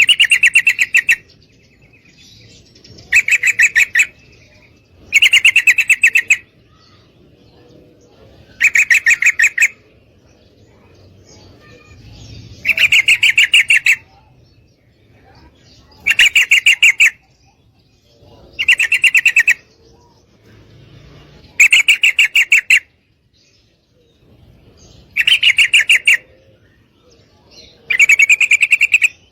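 Female yellow-vented bulbul (trucukan) giving a rapid, pulsed chattering trill, repeated about ten times, each burst lasting about a second with short pauses between: a female's call to draw a male.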